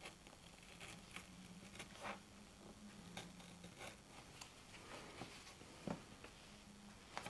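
Faint scattered clicks and light scrapes of small workshop parts being handled by hand, with a faint low hum that comes and goes.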